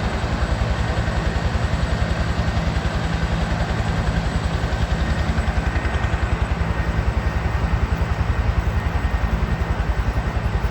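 Helicopter hovering low and close, loud, its rotor beating in a fast, even pulse over the steady engine noise.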